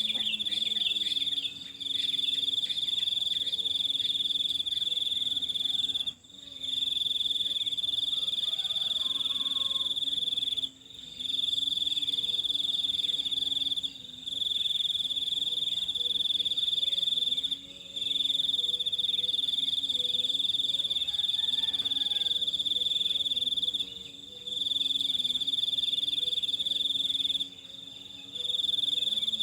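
Crickets trilling: a steady, high-pitched trill that stops for a moment every few seconds and starts again, with fainter lower calls underneath.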